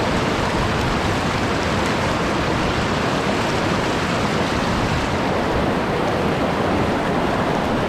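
Mountain stream's fast water rushing over rocks, a steady, unbroken roar of running water.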